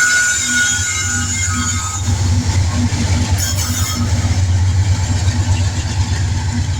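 Long coal train rolling past: high-pitched steel wheel squeal fades out about two seconds in, leaving a deep, steady rumble that grows slightly louder.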